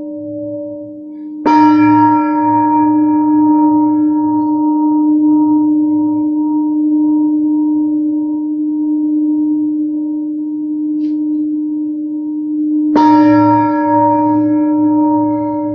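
Singing bowl struck twice, about a second and a half in and again near the end, each strike giving a long, slowly fading ring over a steady low hum with a slight wavering.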